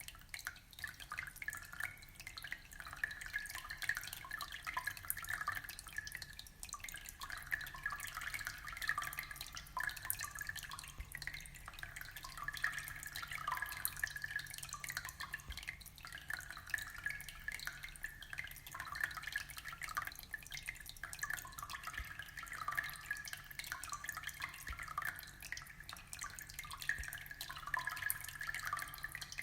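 Aquarium water trickling and bubbling, a steady stream of small drips and plops.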